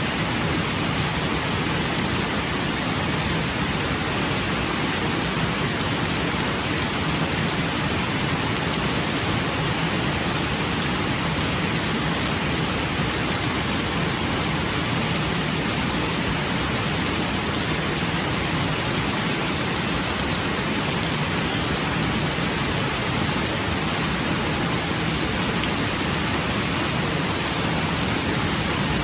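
Rain falling steadily, an even hiss that holds the same level throughout, with no separate drops or thunder standing out.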